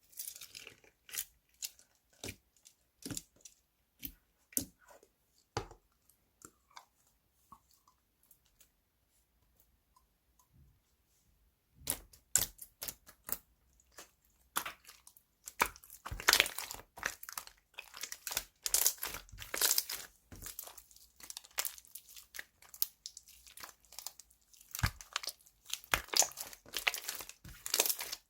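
Slime being squished and stretched by hand, giving irregular small crackles and pops. After a few seconds of near quiet, a dense run of crackling starts about halfway through.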